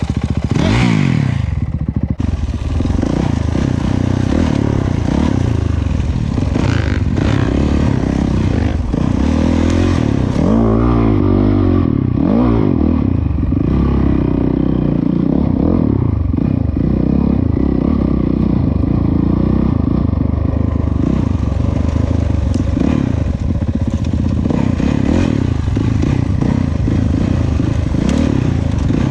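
Dirt bike engine running hard while riding, the revs rising and falling, with rattling from the bike over rough ground.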